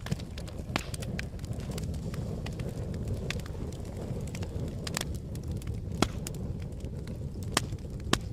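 Campfire burning: a steady low rumble of flames with irregular sharp crackles and pops, a couple of louder pops about six and seven and a half seconds in.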